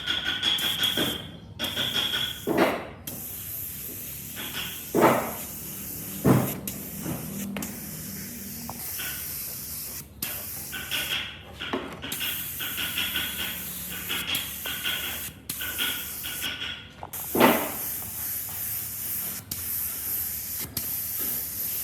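Compressed-air spray hissing in stretches of a second or a few seconds with short breaks, sometimes with a thin whistle, and a few knocks in between.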